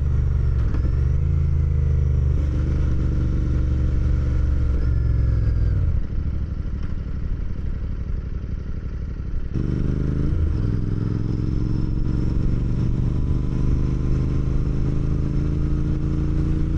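Motorcycle engine running while riding, its pitch moving with the throttle. About six seconds in it drops back and quietens, then picks up again some three seconds later and climbs steadily as the bike accelerates.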